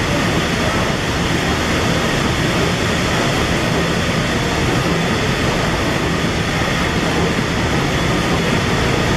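Liberty ship's three-cylinder triple-expansion reciprocating steam engine running steadily in its engine room: a loud, even mechanical churn and clatter with no pauses.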